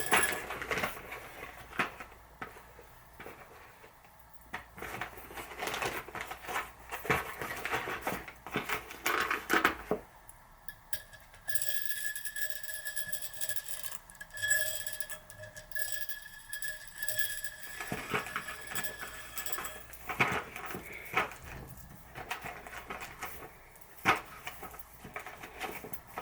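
Plain steel M8 washers clinking and scraping as they are handled and stacked onto a threaded steel bar, in irregular small metallic clicks.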